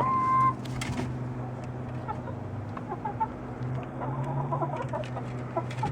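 Americana hens clucking and chirping softly and sporadically as they settle to roost, with a short held call at the start. A steady low hum runs underneath.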